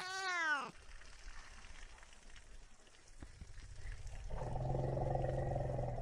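A domestic cat's single meow, rising and then falling in pitch over about half a second. About four seconds in, a steady low-pitched drone begins.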